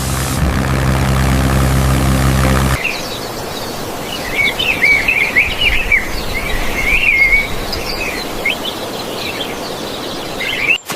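A tractor engine sound effect runs steadily and then cuts off abruptly about three seconds in. Birds then chirp and tweet over a quiet outdoor background.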